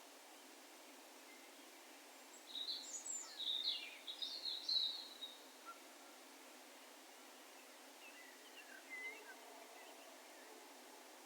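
Distant wild bird calling: a quick run of high, rapidly changing chirping notes starting about two and a half seconds in and lasting nearly three seconds, then a fainter, shorter call later. A faint steady hiss of open countryside lies under it.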